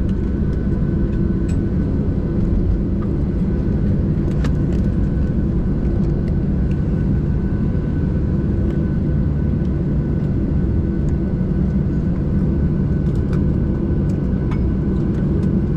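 Steady low rumble with a faint high whine inside the cabin of a Boeing 737-800 on the ground after landing, with a few light clicks.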